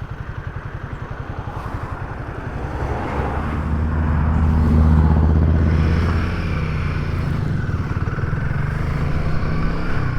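Royal Enfield Himalayan 450's single-cylinder engine under way, first with an even low throb, then pulling louder and steadier from about three seconds in, loudest a couple of seconds later.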